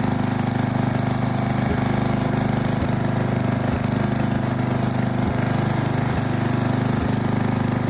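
Riding lawn mower's 12.5 hp Briggs & Stratton engine running steadily at an even speed while mowing.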